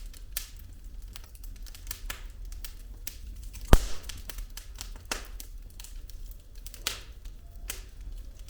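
Burning firewood crackling in a fireplace, with irregular sharp pops over a low rumble of flame; one pop just before the middle is much louder than the rest.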